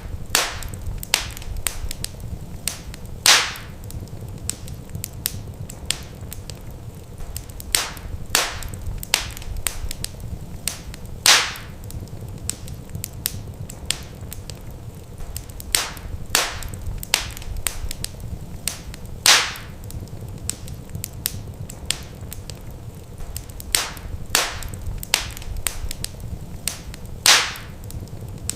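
Wood fire crackling, with many small snaps and a louder pop about every eight seconds over a steady low rumble.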